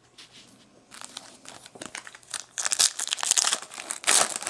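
Foil wrapper of a Bowman Chrome baseball card pack crinkling and tearing as it is opened. It gets much louder in the second half.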